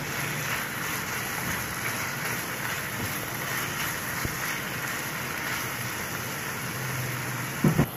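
Chicken breast pieces and minced garlic sizzling steadily in hot oil in a non-stick frying pan as they are stirred.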